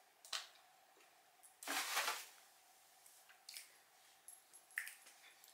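Faint, wet, squishy mouth sounds of someone chewing a spoonful of soft tres leches cake, with a few small clicks in the second half.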